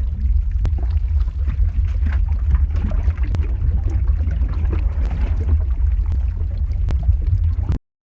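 Lava-flow ambience sound effect: a deep, steady rumble with scattered crackles and pops and a gurgling, bubbling texture. It cuts out abruptly near the end.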